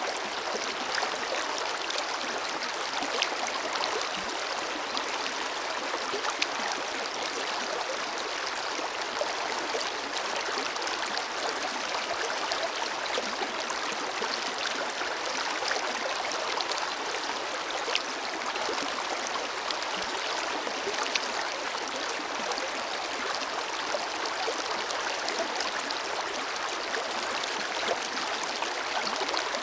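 A forest river flowing steadily over rocks: an even rush of water with small splashes and gurgles here and there.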